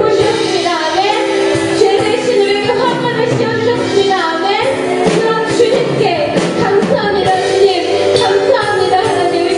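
A praise band and singers performing a contemporary worship song live: sung voices over held keyboard-like chords.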